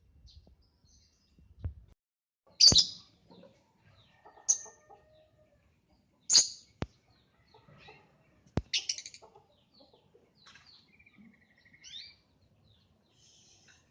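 Lovebirds giving loud, shrill screeching calls a couple of seconds apart, with softer chirps and a short rising trill between, and two sharp clicks in the middle.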